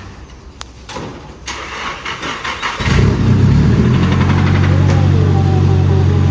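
Toyota Corona car engine cranked over and catching about three seconds in, then running at a steady idle. It is the engine the owners suspect has a knocking connecting rod.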